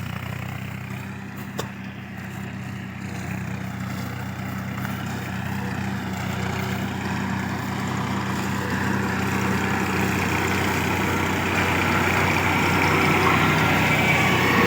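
Tractor running with its mounted mulcher: a steady engine hum whose noise grows gradually louder and fuller. There is a single sharp click about one and a half seconds in.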